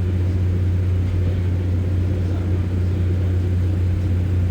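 Underfloor diesel engine of a Class 144 Pacer railcar running with a steady low drone.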